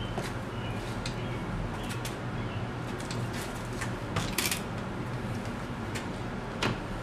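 Scattered light clicks and rattles from handling the removed engine wiring harness and its plastic connectors, with a short cluster of clicks a little past halfway and a sharper click near the end, over a steady low hum.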